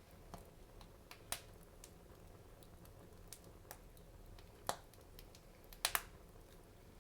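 Wood fire crackling in a fireplace: irregular sharp pops over a faint low rumble, with a loud pop about a second in, another past the middle, and a quick double pop near the end.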